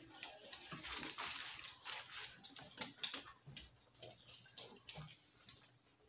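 Eating sounds: chewing and lip-smacking mouth noises with small clicks, and a brief rustle about a second in.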